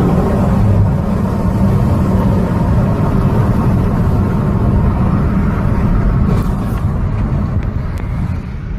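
A car driving, with a steady loud rumble of engine and road noise.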